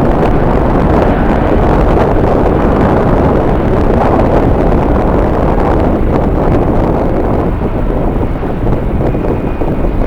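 Strong wind blowing over the microphone: a loud, steady rushing noise that eases slightly near the end.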